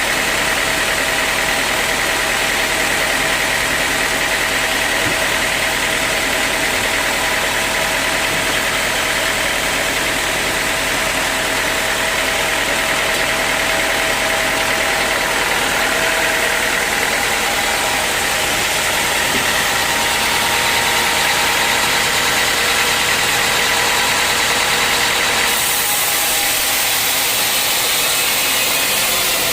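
Sawmill machinery running steadily while sawing teak wood: a constant mechanical drone with a high whine, changing abruptly near the end.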